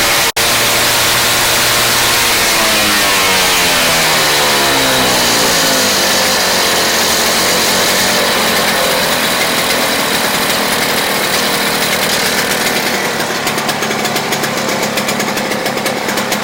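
Toro Snow Commander snowblower's two-stroke engine running loud and fast after starting, its pitch sweeping up and down for the first several seconds. Near the end the note turns to a rapid, uneven pulsing.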